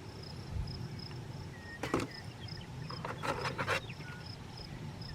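Insect chirping outdoors, a high pulse repeating about three times a second without a break. Short rustles and clicks of handling come about two seconds in and again around three to four seconds.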